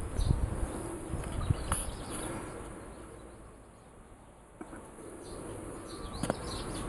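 Outdoor garden ambience: small birds chirping now and then in the background, with low rumbling on the microphone during the first couple of seconds.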